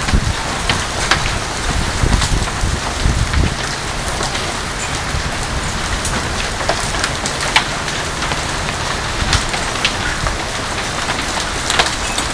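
Hailstorm: a steady hiss of rain and hail coming down, with scattered sharp cracks of hailstones striking, a few louder than the rest.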